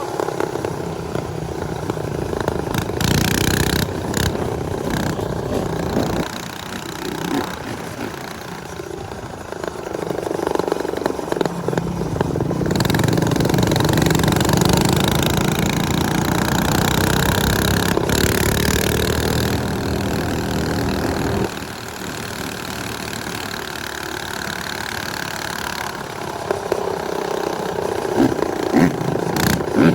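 Small motorcycle engines running during a group ride, the engine sound swelling about twelve seconds in and easing back a little past twenty seconds.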